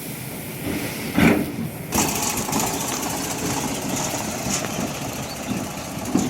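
Eicher 485 tractor's diesel engine running steadily, with a sharp knock just over a second in and another at about two seconds.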